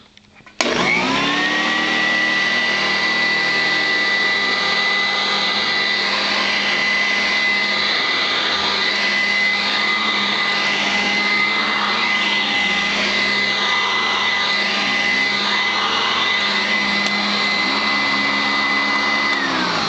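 Sanitaire SC886 commercial upright vacuum switched on: its direct-air motor spins up within about a second into a steady high whine and runs evenly, then is switched off near the end, the whine falling as it winds down.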